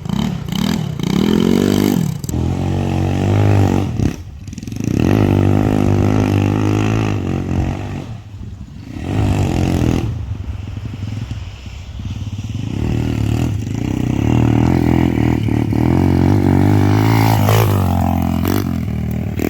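125cc pit bike's single-cylinder engine revving hard under riding, pitch climbing in quick repeated sweeps. The throttle is backed off about four and eight seconds in, then held at high steady revs.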